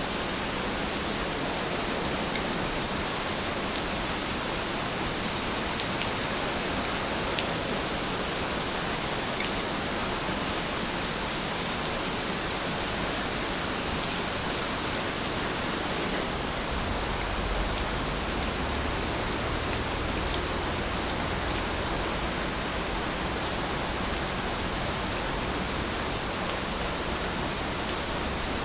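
Steady rainfall, a dense even hiss with scattered faint drop ticks. A low rumble swells briefly about two-thirds of the way through.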